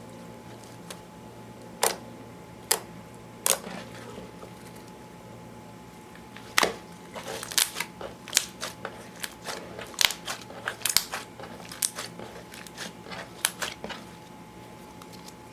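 Slime being pressed and folded by hand, making sharp clicking pops. There are a few spaced clicks at first, then a quick, busy run of them from about halfway until near the end.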